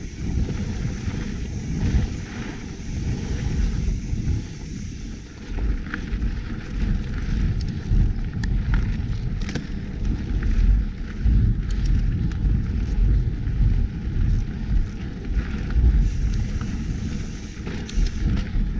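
Wind buffeting an action camera's microphone as a mountain bike rides along a dirt trail. The bike rattles and clicks over bumps, with the clicks more frequent in the second half.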